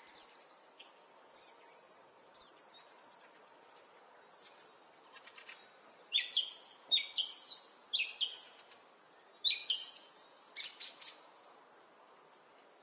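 Small birds chirping: a series of short, high calls, many sliding down in pitch, repeated about once a second.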